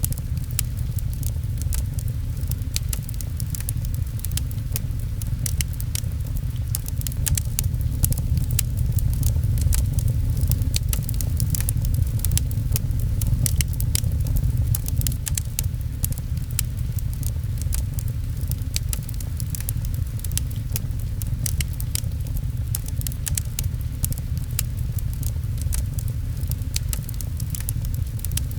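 Rain pattering and a wood fire crackling, with frequent small sharp pops over a steady low rumble.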